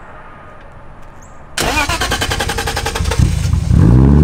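BMW E30's swapped M52 turbo inline-six being started: the starter cranks it with fast, even strokes for about two seconds, then the engine catches near the end with a brief rev and settles into a rough idle through the new 3-inch stainless turbo-back exhaust. The engine is untuned.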